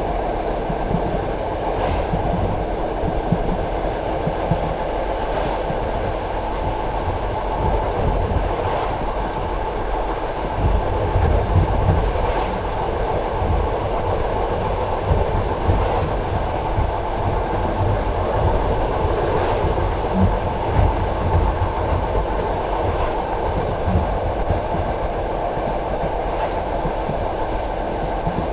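Passenger railway carriage rolling along the track: a steady rumble of wheels on rails, with faint clicks every second or two as the wheels pass over rail joints.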